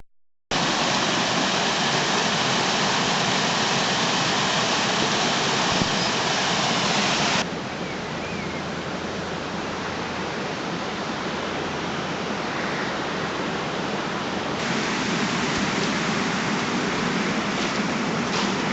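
Steady rushing outdoor noise, like running water, across edited shots: it starts abruptly about half a second in and drops and rises in level at two sudden cuts.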